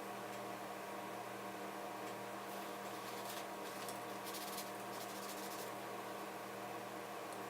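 Steady electrical mains hum. In the middle come a few faint, brief scratchy rubbing sounds from old thermal paste being wiped off a laptop heatsink.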